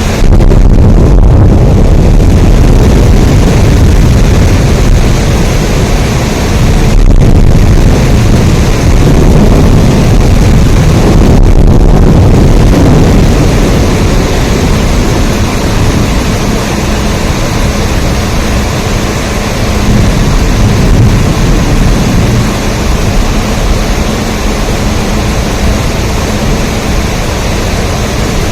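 Heavy rain falling steadily: a dense, even hiss with a strong deep rumble underneath.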